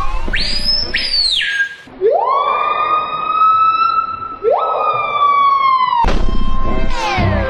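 A siren-like wail: two short high whistles, then two long wailing tones that each rise fast and hold, sinking slowly, the second starting about halfway through. Music comes back near the end.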